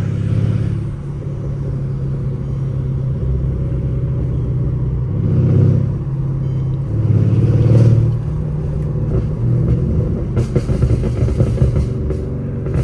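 Mercedes-Benz W218 CLS550's twin-turbo V8 with downpipes, heard from the cabin while driving: a steady low drone that swells twice under throttle, about five seconds and eight seconds in.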